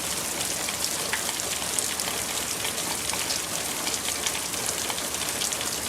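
Steady rain falling, an even hiss of water with scattered close drops ticking through it.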